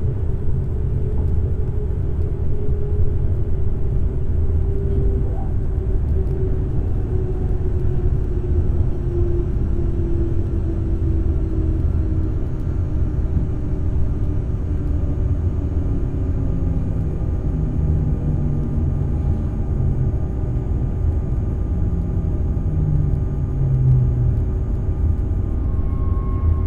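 Z 20500 RER C electric train running, a steady low rumble with a motor whine that falls slowly in pitch as the train slows.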